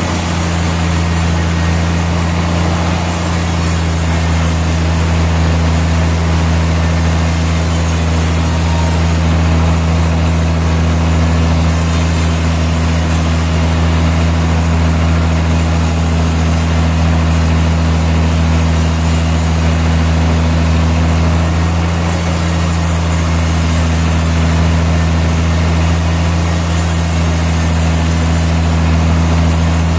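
Sawmill machinery running steadily with a low, even engine-like hum. The pitch and pace do not change, and a higher tone in the hum briefly drops out about two-thirds of the way through.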